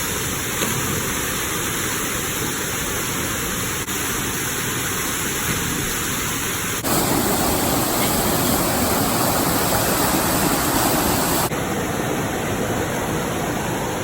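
Waterfall: a steady rush of falling water. It steps up abruptly and gets fuller about halfway through, then drops back a few seconds later.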